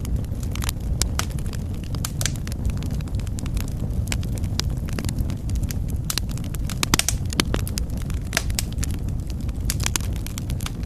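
Wood fire crackling in a fireplace: irregular sharp pops and snaps over a steady low rumble, with a cluster of louder pops about seven seconds in.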